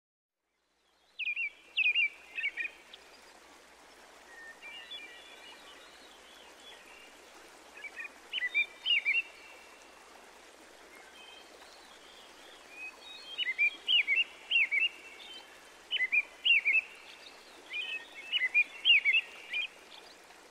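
Songbirds singing in short bursts of quick chirping notes that come in groups every few seconds and grow busier toward the end, over a steady background hiss.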